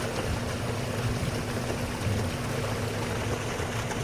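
Truck engine idling steadily, with fast-running water rushing past.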